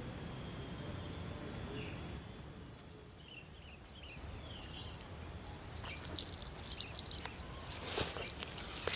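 Faint outdoor background with a few short, high chirps from small birds or insects, then from about six seconds in a run of sharp clicks and rustles.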